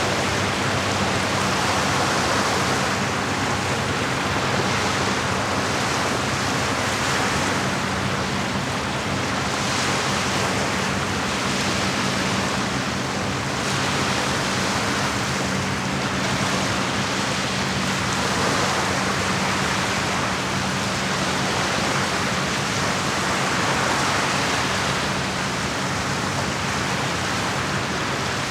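Small lake waves washing against the shore, a steady rush of water that rises and falls in slow swells every several seconds, over a steady low hum.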